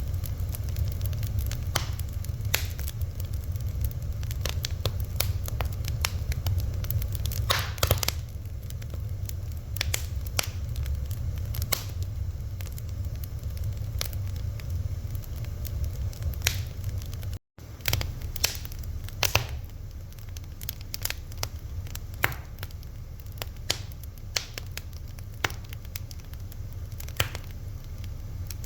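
Fire crackling, with irregular sharp pops and snaps over a steady low rumble. The sound cuts out for a split second about halfway through.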